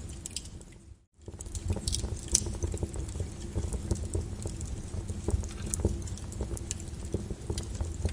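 Lava flow crackling and popping in a dense, irregular patter over a low rumble. The sound fades to a brief gap about a second in, then resumes.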